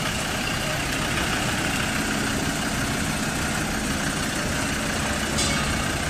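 The engine of a tourist road train, a trackless park train, running steadily with a low, even hum.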